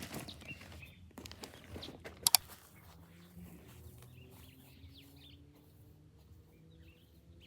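Footsteps and rustling with two sharp clicks in quick succession about two seconds in, then faint low animal sounds and a few faint bird chirps.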